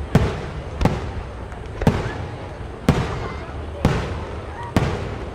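Aerial firework shells bursting in a steady sequence, six sharp bangs about a second apart, each trailing off in a rolling echo.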